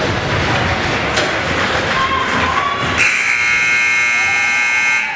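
Ice rink's electric buzzer sounding once for about two seconds, a steady harsh tone that starts abruptly about three seconds in and cuts off sharply, over the general noise of the rink.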